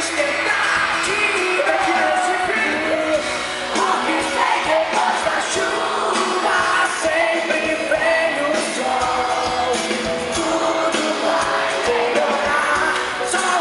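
Live pop-rock band playing with a lead vocal singing over it, drums keeping a steady beat.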